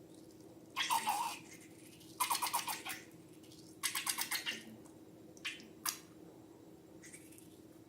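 Slime and latex balloons being worked by hand: three bursts of quick, rhythmic crackling squelches, followed by two short sharp clicks.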